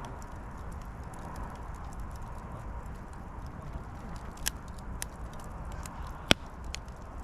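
Wood fire crackling, with scattered sharp pops from the burning firewood, the loudest about six seconds in.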